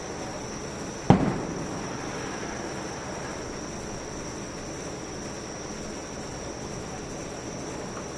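A single firework shell bursting with one sharp bang about a second in, its boom trailing off over the next half second or so. Steady background noise and a faint, steady high-pitched tone continue underneath.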